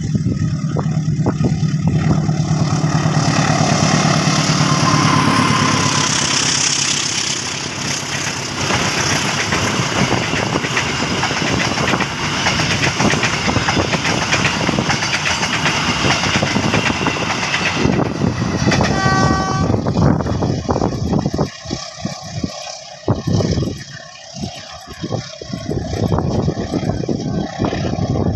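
Diesel-hauled passenger train passing at speed: loud rumble and rapid clatter of wheels over the rails for about 20 s, then dying away. A brief high tone sounds about two-thirds of the way through.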